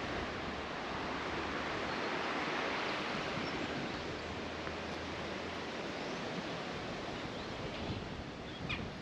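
Sea surf washing in, a steady rushing that swells a little about two to three seconds in.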